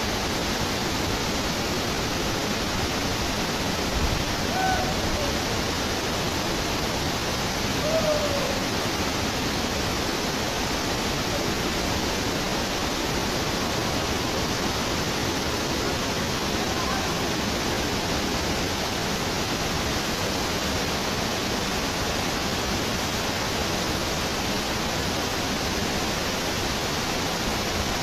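Waterfall rushing steadily, a dense, unbroken hiss of falling water. A couple of faint, brief higher sounds rise above it about four and eight seconds in.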